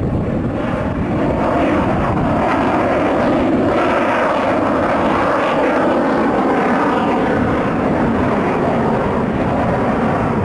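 Sukhoi Su-27 fighter's twin AL-31F turbofan jet engines heard in flight during a display, a loud steady jet rumble.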